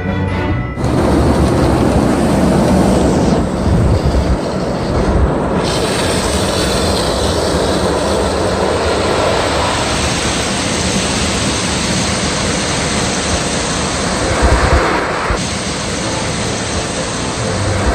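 Automatic car wash machinery rushing over the car, heard from inside the cabin: a loud, steady roar of water jets and blowers that starts about a second in.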